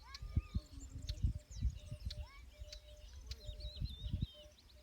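Several small birds chirping and twittering in short rising and falling calls, with a quick trill near the end. Low irregular thuds and rumbles run underneath.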